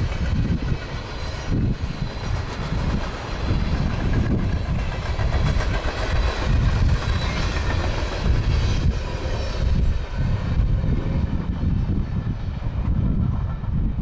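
Freight train of railroad cars rolling past on the rails: a steady, heavy rumble. The higher part of the sound thins out over the last few seconds as the train moves off.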